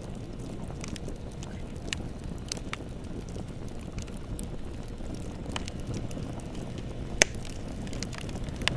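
Bonfire crackling: a steady low rumble of burning with irregular sharp pops and snaps, the loudest one about seven seconds in.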